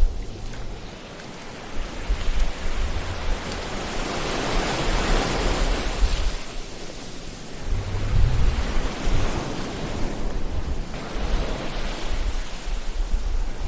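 Ocean waves washing in: a steady rush of surf that swells to a peak about five seconds in and ebbs, with a low rumble a few seconds later.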